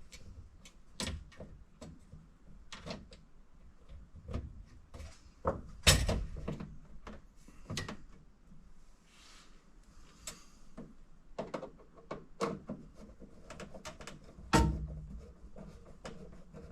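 Scattered clicks, taps and knocks of car interior trim pieces being handled and fitted, with two louder thumps, about six seconds in and near the end.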